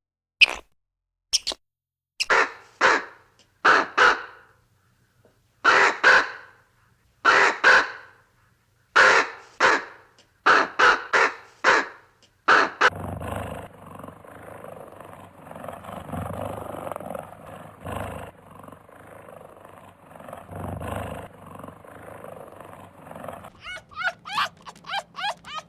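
A sequence of animal calls: short harsh calls repeating about once a second, then a rougher, noisier stretch with a low hum, then rapid high chirps near the end.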